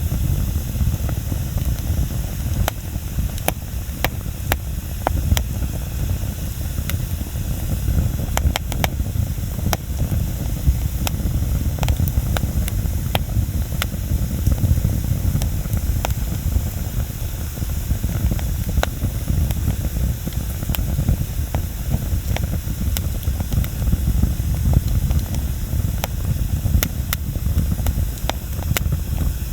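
Wood bonfire crackling, with scattered sharp pops and snaps over a steady low rumble.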